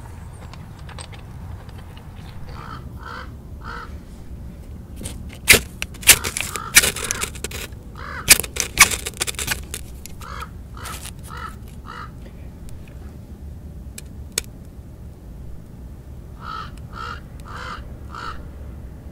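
A bird calling in three runs of three or four calls each. Dry sticks and twigs clatter and snap as they are handled, loudest in the middle, between about five and ten seconds in.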